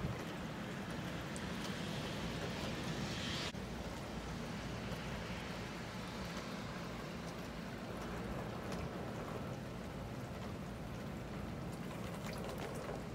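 Steady hiss of rain falling on wet pavement, with faint scattered drop ticks. The hiss dims abruptly about three and a half seconds in.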